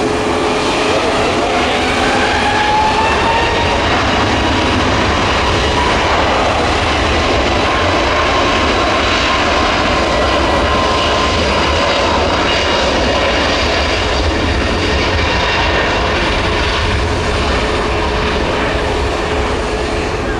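Airbus A321neo's jet engines at takeoff power: a loud, steady roar with a whine that rises in pitch over the first few seconds and then holds.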